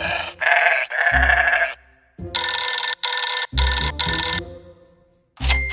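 Cartoon comedy sound effects over music: a buzzy, bleat-like noise three times in the first second and a half, then a ringing, bell-like tone in two bursts, each burst starting with a deep thump.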